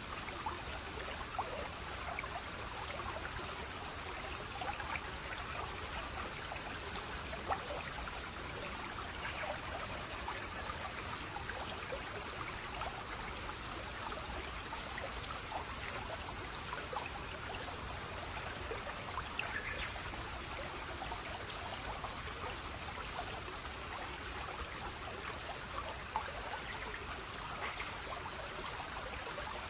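Flowing water trickling and splashing steadily, with many small splashes. A faint high trill repeats every several seconds.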